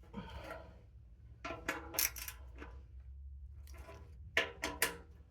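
Metal hand tools and hardware clinking during bolt work on a motorcycle: a few sharp, ringing metallic clinks in two clusters, one about a second and a half in and another near the end.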